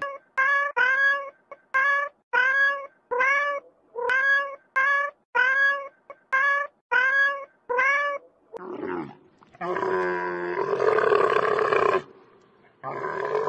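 A cat meowing over and over: about fourteen short calls in eight seconds, each rising and then falling in pitch. About ten seconds in comes a longer, louder, rough animal call lasting about two seconds, and another begins near the end.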